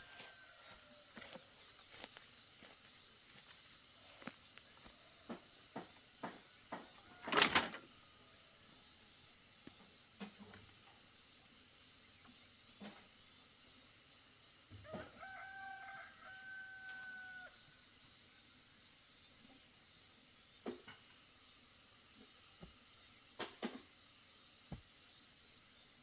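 A rooster crows once, about fifteen seconds in: one drawn-out call held on a steady pitch for about two seconds. Around it are a steady high-pitched drone, scattered light knocks and one loud knock about seven seconds in.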